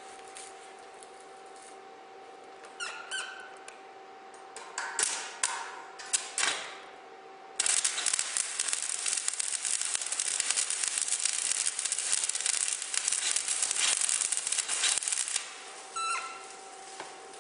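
Stick (coated-electrode) arc welding of a vertical-down pass on thin steel tube. A few short sputtering arc strikes are followed, about 7.5 seconds in, by roughly eight seconds of steady, dense crackling from the arc. The weld is run fast at just enough current so the thin tube wall is not burnt through. A steady faint hum runs underneath.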